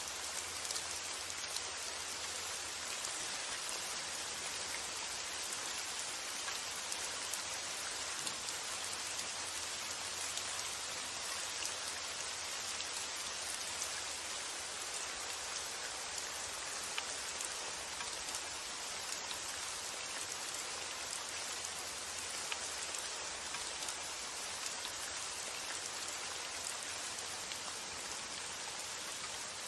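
Steady rain falling, an even hiss with fine scattered drop ticks throughout.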